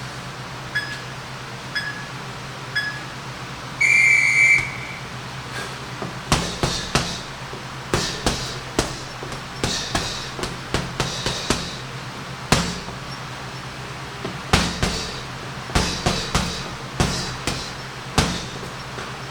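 A boxing round timer beeps three short times and then once long, signalling the round start, followed by gloved punches landing on a heavy bag in irregular combinations, some in quick flurries.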